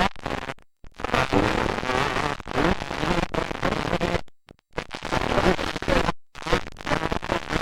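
Dirt bike engines with rough noise overloading the microphone, broken by several sudden short drop-outs to silence.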